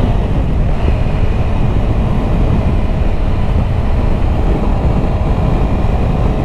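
Yamaha YZF-R3 parallel-twin motorcycle riding at a steady cruise: a constant rush of wind on the microphone over the engine's even drone.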